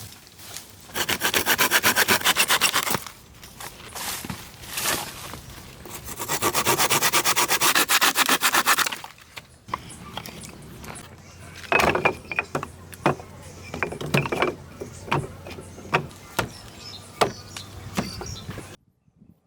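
A saw cutting through wood in two spells of rapid, even strokes, followed by a series of separate wooden knocks and taps.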